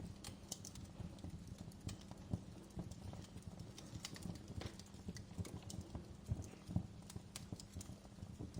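Wood fire crackling in a fireplace: irregular sharp crackles and pops over a low steady rumble, with one louder pop near the end.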